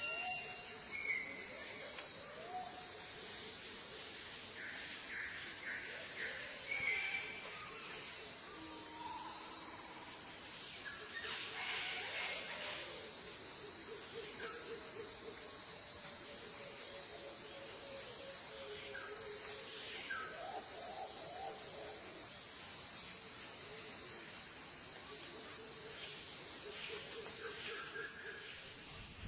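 Steady high-pitched drone of insects, with many short bird calls and chirps scattered over it.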